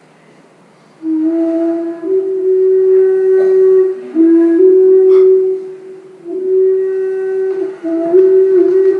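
A flute-like wind instrument playing a slow tune of long held notes, starting about a second in, with a short break a little past the middle.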